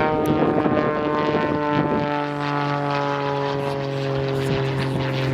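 Airplane engine droning overhead, one steady pitched note whose pitch sinks slowly as the plane passes.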